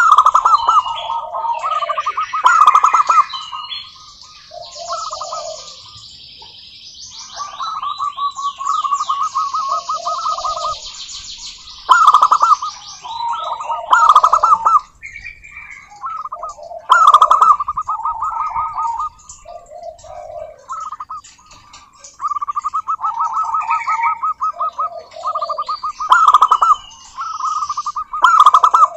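Zebra doves calling over and over, each call a rapid stuttering coo trill with lower soft notes between. Stretches of high, thin chirping from other birds run behind them.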